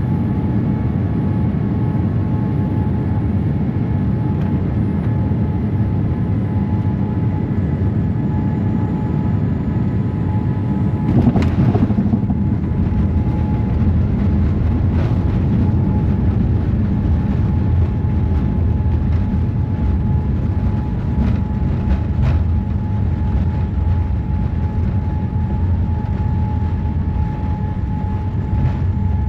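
Cabin noise of a Boeing 787-8 airliner: a steady low rumble of engines and airflow with a faint constant whine. About eleven seconds in there is a sharp thump, after which the rumble grows a little louder, and a few lighter knocks follow.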